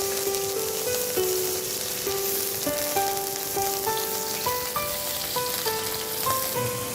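Beef sizzling as it fries in hot cooking oil in a pan, with a steady hiss, under a background music melody of short stepped notes.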